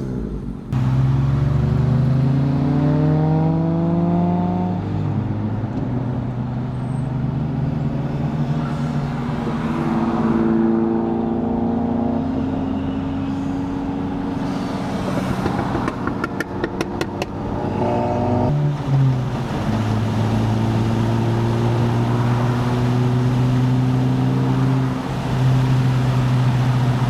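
Car engine pulling away and rising in pitch, then running steadily at a cruising pace. Its pitch drops and picks up again about two-thirds of the way through, as on a gear change. A short run of rapid ticks comes just before that.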